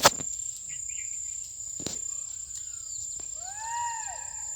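Steady, high-pitched drone of crickets, with a sharp click at the start and another about two seconds in. Near the end come a few short arching whistled calls.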